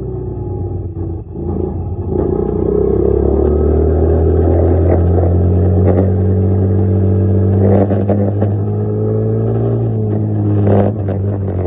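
Dirt bike engine running at a fairly steady pitch while being ridden, with slight rises and falls in revs. The revs dip briefly about a second in, and a few short knocks come through later.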